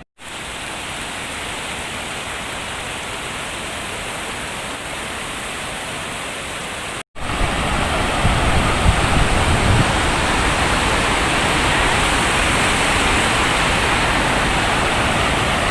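Steady rush of a waterfall's falling water. It breaks off briefly about seven seconds in and comes back louder and deeper.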